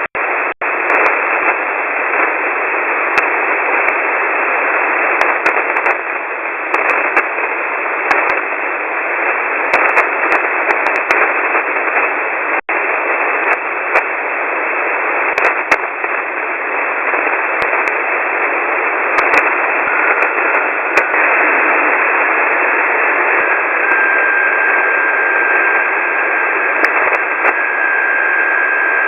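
Shortwave radio receiver hiss on an empty voice channel, thin and band-limited, peppered with static crackles and cutting out briefly twice. About two-thirds of the way through a steady whistle of a carrier tone comes in and holds.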